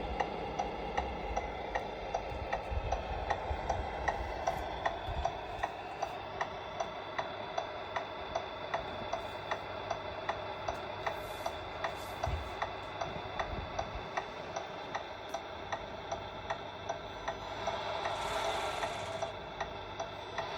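Steady, even ticking, about two to three ticks a second, over a low hum, with a short hiss swelling near the end.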